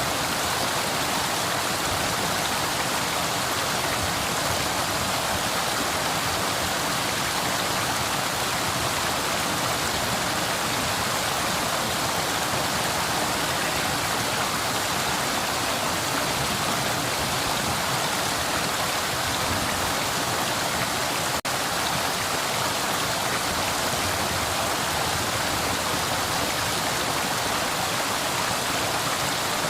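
River water flowing in a steady, even rush, with one momentary dropout about two-thirds of the way through.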